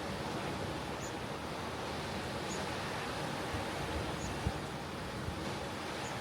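Steady wash of ocean surf, with a faint short high chirp about every one and a half seconds.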